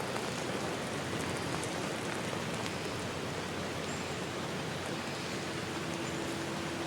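Steady rain falling in a forest, an even hiss with faint drop ticks. A short high chirp sounds about four seconds in, and a faint steady low tone joins about five seconds in.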